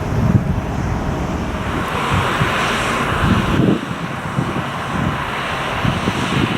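Departing jet airliner's engines at takeoff power, heard as a broad roar, with wind buffeting the microphone. The higher part of the roar drops away abruptly about halfway through.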